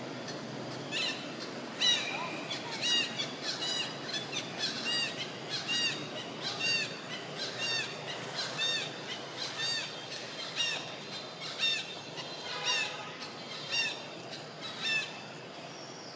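A bird calling over and over, short arched notes about once a second that stop near the end, over a faint steady background of forest noise.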